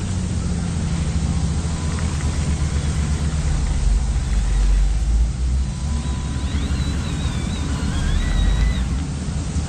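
Radio-controlled construction models running, giving a steady low engine-like rumble. A few high chirps sound over it about two-thirds of the way in.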